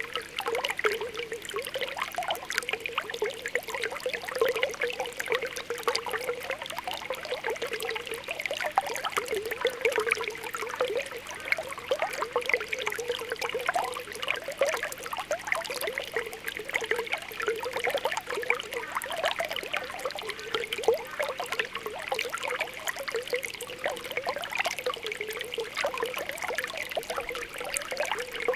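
Spring water welling up through a pool, making a continuous irregular popping and bubbling over a soft trickle.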